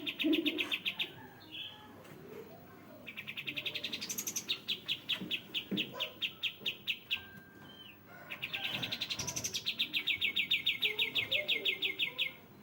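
Kapas tembak, a songbird, singing long, fast trills of evenly repeated notes, one ending about a second in and two more starting about three and eight and a half seconds in.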